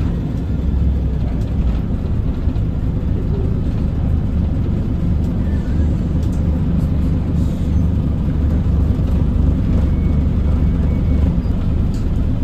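Scania L94UB bus's rear-mounted diesel engine running with a steady low drone, heard from inside the cabin, with a few faint rattles.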